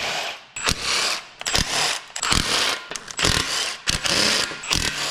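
A cordless power tool run in about seven short bursts, each under a second, backing out the bolts that hold the piston oil squirters in a 6.0L Powerstroke engine block.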